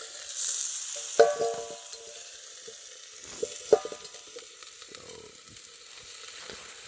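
Chicken and pork chop sizzling on a hot flat rock over a campfire, a steady hiss. Twice, a sharp clink rings out briefly, about a second in and again a few seconds later.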